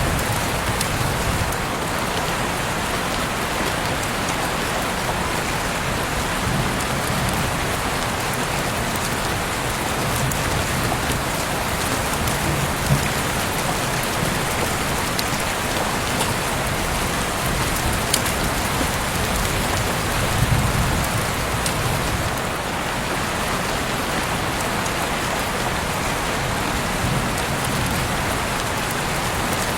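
Heavy rain pouring steadily, a dense even hiss with a few sharper drop hits now and then.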